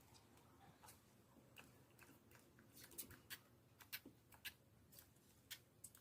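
Faint, short clicks and pops of slime being pressed and stretched by hand, a handful of sharper clicks in the second half.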